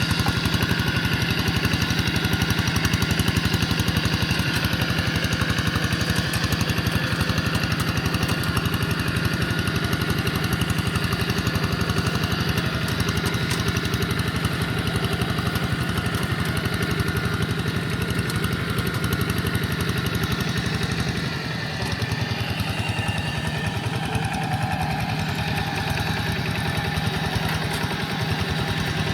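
Quick G1000 walking tractor's engine running steadily under load while pulling a moldboard plough through wet soil. It eases off briefly about two-thirds of the way through, then picks up again.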